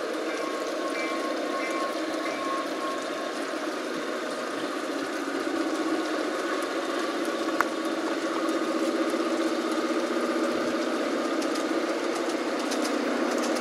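Model diesel railcar running on a garden railway, a steady hum of motor and wheels on track that grows louder about halfway through as it comes nearer. There is one sharp click about two-thirds of the way in, and a faint repeated high tone in the first few seconds.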